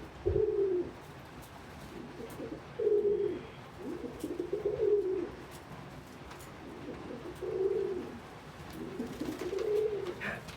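Domestic pigeons cooing: low coos in about six separate bouts, each lasting about half a second to a second and a half, with short gaps between.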